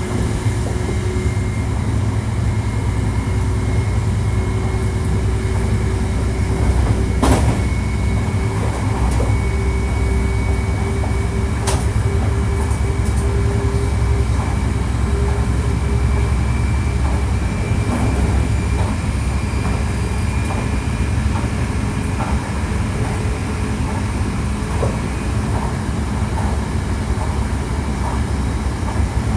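Hankyu 1300 series electric train running: a steady low rumble of wheels on track with the thin whine of its Toyo IGBT VVVF inverter and traction motors, which edges up slightly in pitch and fades out about two-thirds of the way through. Two sharp clicks cut through early on the way.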